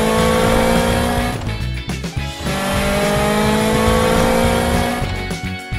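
Cartoon race-car engine sound effect revving up twice, each a rising whine of about two and a half seconds with a short break between, over background music.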